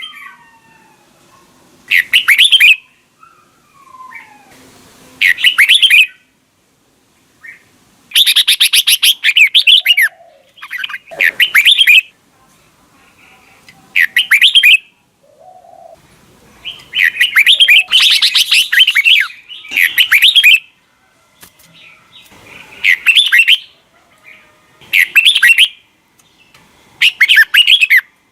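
Red-whiskered bulbul singing: short, loud warbled phrases repeated every two to three seconds.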